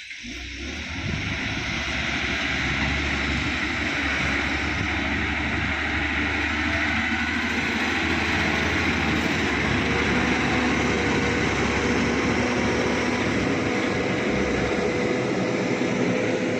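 Heavy dump truck's engine running steadily, a constant low hum with a hiss over it. It cuts in suddenly at the start.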